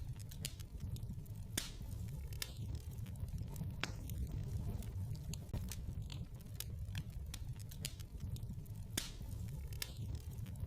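Wood fire crackling in a fireplace: irregular sharp pops and snaps over a steady low rumble from the burning logs.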